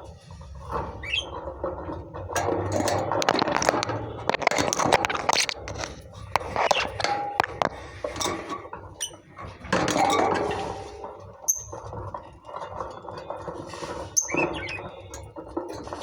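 Pet lovebirds making short chirps and squeaks amid a run of small clicks and scratching noises.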